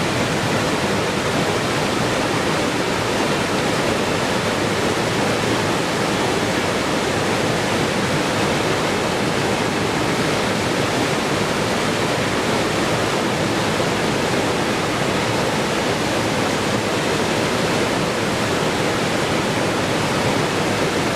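Steady, unbroken rush of water falling, as from a waterfall, with no change in level.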